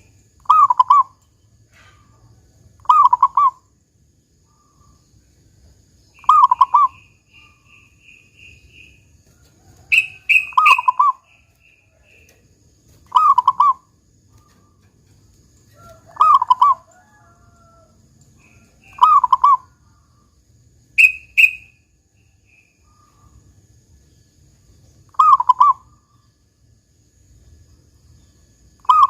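Zebra dove (perkutut) cooing. A short call phrase ending in the deep 'kung' note is repeated about every three seconds, nine times. A few higher, shorter chirps fall between the phrases.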